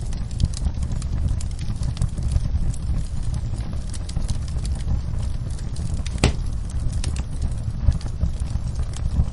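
Wood fire in a fireplace crackling, with irregular small pops over a steady low rumble of the flames, and one sharp louder pop a little past the middle.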